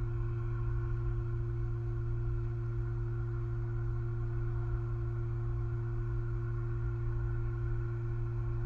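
Steady electrical hum: a strong low hum with a steady higher tone and fainter whine-like tones above it, holding constant with no other sound breaking through.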